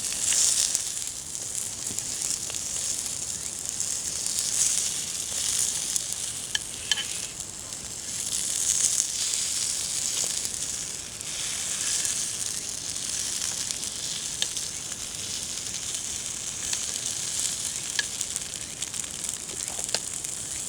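Food sizzling in a hot pan: a steady frying hiss that swells and eases every few seconds, with a few faint clicks.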